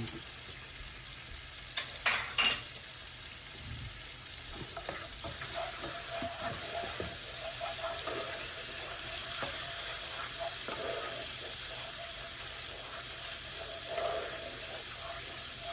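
Shallots, garlic, lemon juice and zest sizzling in butter in a skillet. There are a few sharp knocks about two seconds in, and the sizzle grows louder from about five seconds in.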